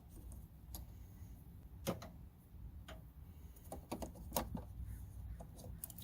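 Hand tools clicking and tapping in a few irregular sharp strikes, the loudest about two seconds in and just past the middle, over a low steady rumble.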